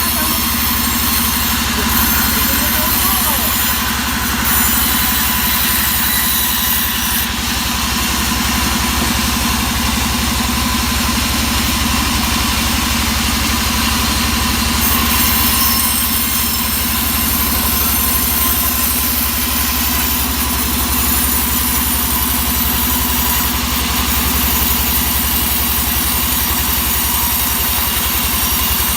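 An engine running steadily at an even speed, a constant drone with a regular firing pulse and no revving.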